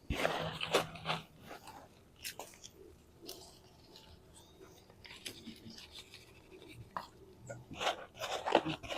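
Potting soil being scooped and pressed into a plant pot: crunchy scraping and rustling, loudest in the first second and again near the end, with scattered small clicks in between.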